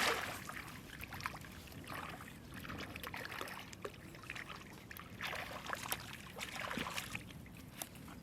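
Water splashing and sloshing in irregular bursts, with a sharp splash right at the start.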